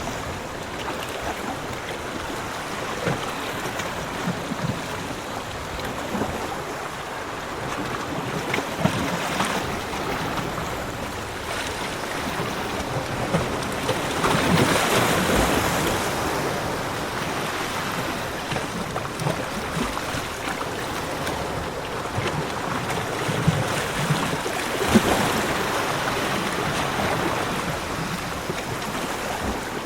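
Ocean surf on a beach, a steady wash of waves with a louder wave breaking about halfway through and another a few seconds before the end.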